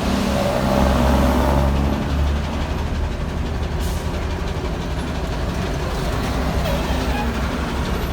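Diesel engine of a 1995 Kenworth T800 truck running steadily under way, a little louder for a moment about a second in.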